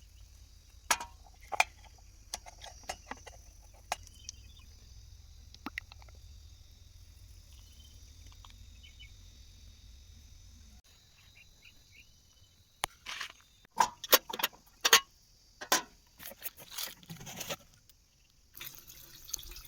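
Scattered clicks, taps and knocks of parts and tools being handled, with a low steady hum that stops about eleven seconds in. Louder knocks come close together near the end.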